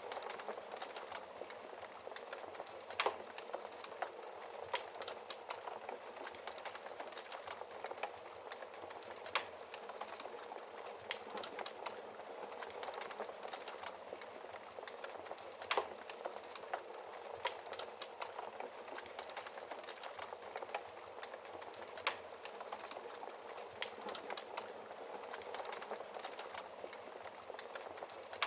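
Wood fire in a fireplace crackling steadily: a soft hiss with many small pops, and a few louder snaps spaced several seconds apart.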